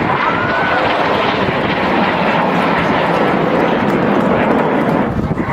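Two BAE Hawk T1 jets with Adour turbofans making a low, fast head-on crossing pass: a loud, steady jet roar with no break.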